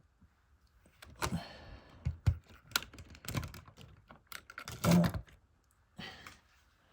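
Irregular clicks, taps and knocks of plastic model railway stock being handled and set down, with a sharp knock about two seconds in and a heavier clatter about five seconds in.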